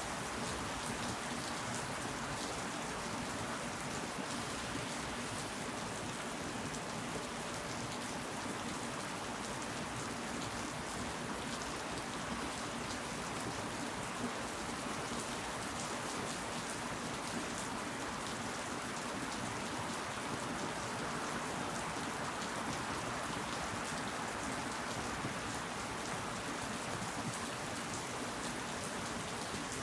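Steady rain falling, an even hiss of many small drop impacts with no change in strength.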